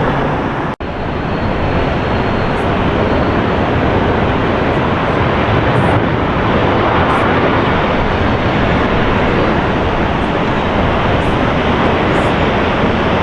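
Jet airliner engines running, a steady, loud rushing noise. It cuts out sharply for an instant just under a second in, then resumes.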